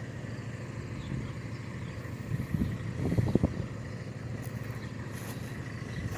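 Tractor engine running steadily, with a few short louder sounds a little past the middle.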